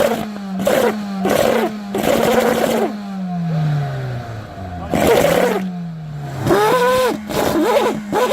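A car engine idling and being revved in repeated short blips through a cheaply modified aftermarket exhaust. There are several quick revs at first, the engine falls back, it revs again about five seconds in, then a fast run of sharp blips near the end.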